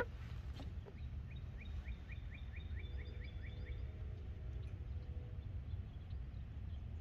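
A small bird calls a quick run of about ten short rising chirps, around three to four a second, over a steady low rumble. A single sharp knock comes right at the start.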